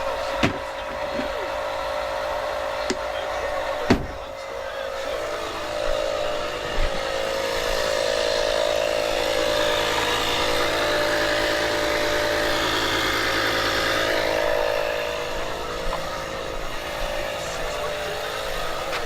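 A vehicle engine running with a steady hum, under a swell of broader noise through the middle and a few sharp knocks, the loudest about four seconds in.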